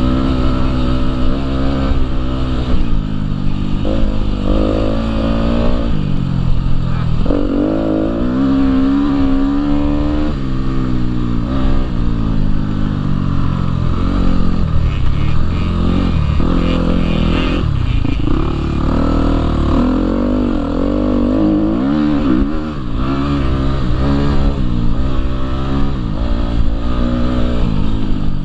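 Husqvarna dirt bike engine under way, revving up and easing off again and again as the rider works the throttle, its pitch rising and falling.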